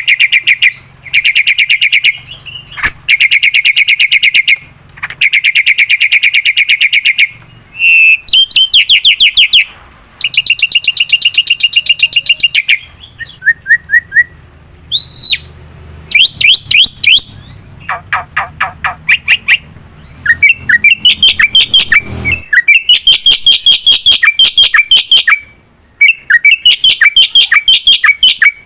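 Black-winged myna (jalak putih) singing loudly: long runs of rapid, rattling repeated notes broken by short pauses, with a few whistled sweeps about halfway through.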